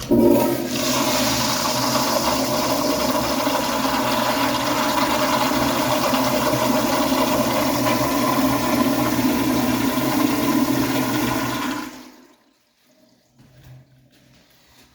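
A concealed brass Sloan flushometer valve flushing a commercial fixture: the valve opens sharply and a loud, steady rush of pressurised water runs for about twelve seconds, then tapers off and stops.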